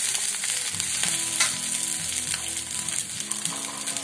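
Chopped coriander leaves sizzling in hot oil in a kadai over a low flame, with a steel slotted spatula stirring and scraping against the pan in short clicks.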